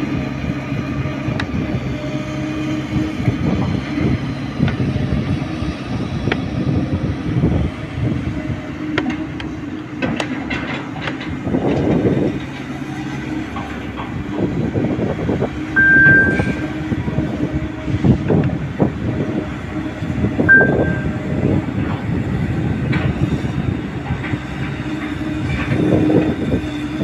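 Excavator engine running steadily under load while the machine works, with repeated metallic clanks and knocks from the bucket and tracks and two brief high squeals midway.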